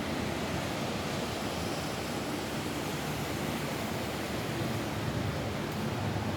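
Steady rain falling on a roof, a dense even hiss with no separate drops standing out.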